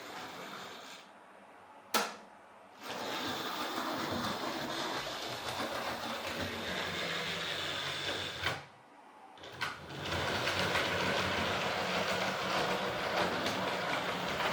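Hornby Dublo GWR 0-6-2 tank locomotive running on three-rail track, its small electric motor whirring steadily with the wheels running on the rails. The sound drops away twice, around two seconds in and again around nine seconds, each time with a sharp click.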